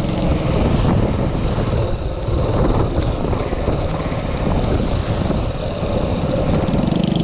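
Minibike engine running under way, rough and loud, settling into a steadier, evenly pulsing hum near the end.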